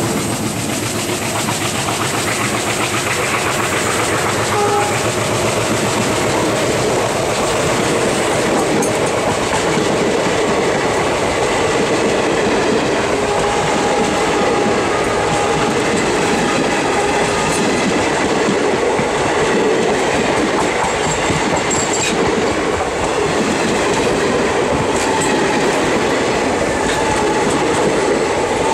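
Passenger coaches of an Indian Railways express train rolling past close by, their wheels clattering steadily over the rail joints.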